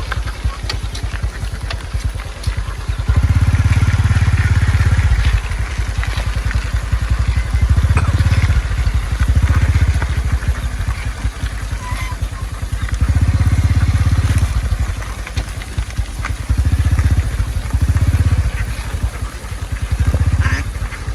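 A small engine running, its low rumble swelling and easing every few seconds, with light clicks and rattles over it.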